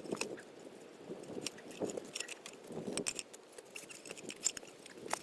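A tie-down strap being handled while it is put around a skid steer track: scattered light metal clinks from its hardware, with soft rustling of the webbing.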